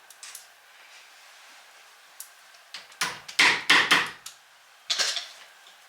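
Hammer strikes on wood: a quick run of four knocks, then one more about a second later.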